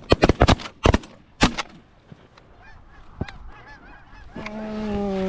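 Goose calling: a quick run of sharp honks and clucks in the first second and a half, faint distant honking in the middle, then one long, slightly falling moan near the end.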